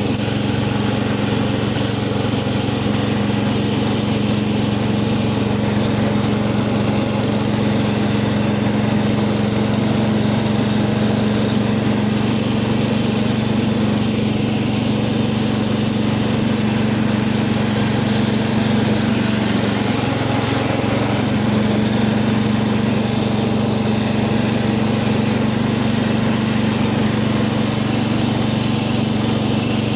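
Cub Cadet 80 garden tractor's single-cylinder engine running steadily, warming up after a cold start, with a brief waver in its note about two-thirds of the way through.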